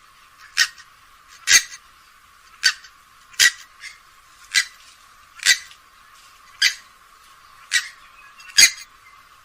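Grey-headed swamphen calling: short, sharp calls repeated about once a second, nine in all.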